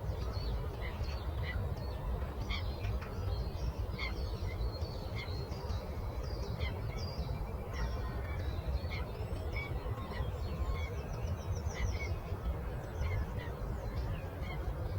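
Many birds chirping and calling in quick short notes, with a fast trill about eleven seconds in, over a steady low rushing noise.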